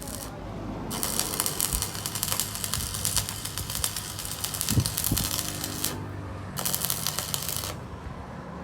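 Dense, sharp crackling from metalworking, starting about a second in, breaking off just before the six-second mark and again near the end, over a steady low electrical hum.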